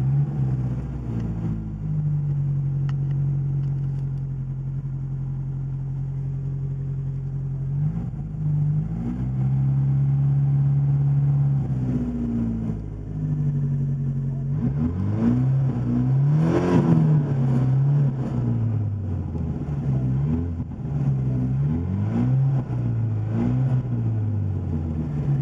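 1980 Porsche 924 Turbo's turbocharged 2.0-litre four-cylinder engine running at a steady fast idle, stepping up in speed about 8 seconds in, then being revved up and down repeatedly in the second half, the highest rev about two-thirds of the way through.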